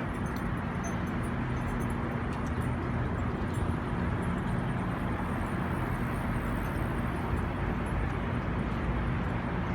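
Steady rumble of a passing train, with a low engine hum underneath.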